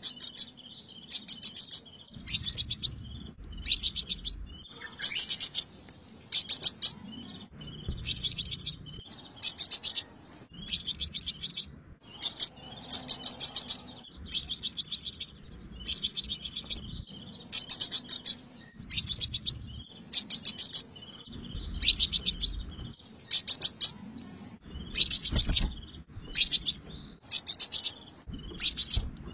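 Sunbird calling: short bursts of rapid, high chirps repeated about once a second, a lure call for trapping.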